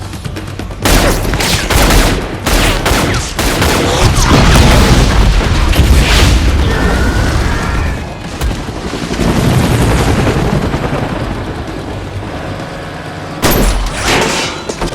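Movie shootout sound effects: volleys of gunfire and heavy booms. Sharp shots come in the first few seconds, a dense loud barrage follows, a deep rumble comes in the middle, and more shots hit near the end.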